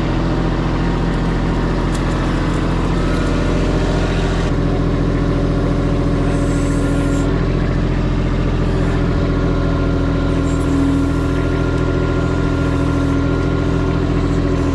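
Kubota diesel engine running steadily while digging.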